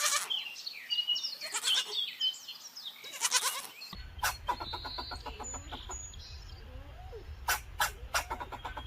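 Farm animals bleating three times, with birds chirping in between. About four seconds in the sound changes to a steady low rumble with a few sharp clicks.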